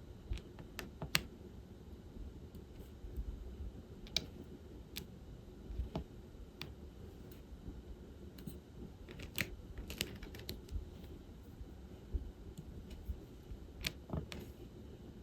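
Diamond painting work: irregular light clicks and taps as a drill pen picks up small resin drills from the tray and presses them onto the canvas.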